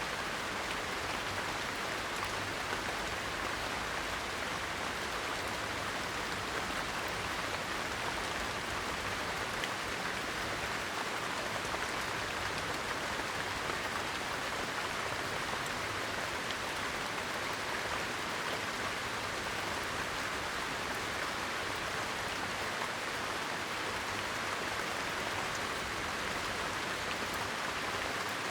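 Steady rain falling: an even, unbroken hiss of dense raindrops.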